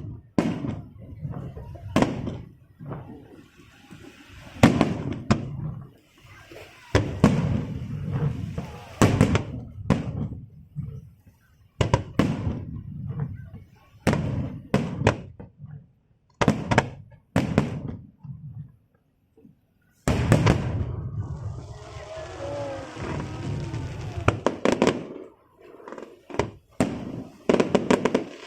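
Aerial fireworks bursting one after another: sharp bangs with deep booming tails, separated by brief lulls. About two-thirds of the way through, a denser run of crackling bursts follows.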